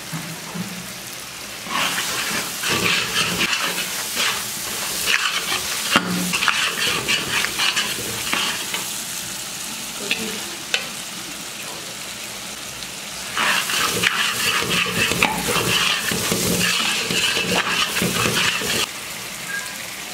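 Spice masala of onion, tomato and ground pastes sizzling in mustard oil and ghee in a kadai, stirred and scraped in two long spells starting about two seconds in and again about thirteen seconds in.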